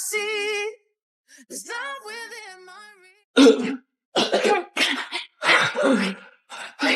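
A person coughing harshly several times in quick succession, after a wavering held vocal tone in the first few seconds.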